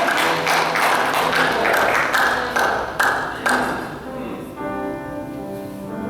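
Live church music: a loud, busy passage with sharp strikes, which drops about four seconds in to held, sustained chords.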